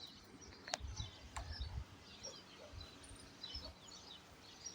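Small birds chirping in quick, scattered calls, with two sharp clicks in the first second and a half and a few low thumps soon after.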